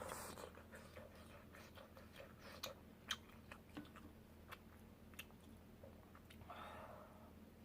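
Close-miked chewing of soft tteokbokki rice cakes: many small, sharp wet mouth clicks at an irregular pace, quiet overall.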